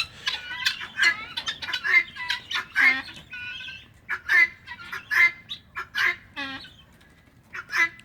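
A flock of guinea fowl calling: a rapid, irregular run of short, harsh repeated calls from many birds. The calls thin out briefly about seven seconds in.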